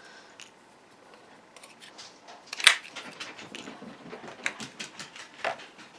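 Handheld paper circle punch cutting black cardstock: one sharp clack about two and a half seconds in, then lighter clicks and paper rustling as the cardstock is handled.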